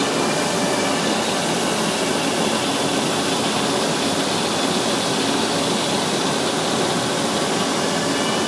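Propeller sanding machine running: steady machine noise with faint high whines that drift slightly in pitch.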